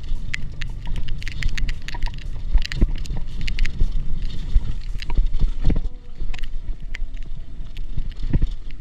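Mountain bike ridden fast over rough trail: a steady low rumble with wind on the microphone and a constant stream of sharp clicks and rattles from the bike's parts and tyres hitting rocks and roots.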